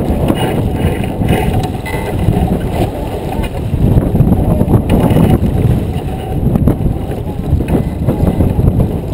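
Wind buffeting the microphone aboard a J24 sailboat under way: a loud, gusting rumble that rises and falls, with faint crew voices in it.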